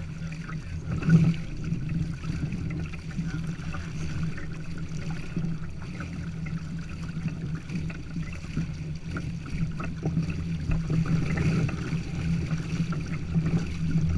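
Water rushing along the hull of a sail-driven kayak under way, over a steady low rumble of wind, with one brief louder thump about a second in.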